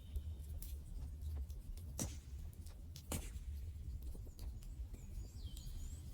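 Wood campfire crackling: scattered small clicks and two louder pops about two and three seconds in, over a low steady rumble.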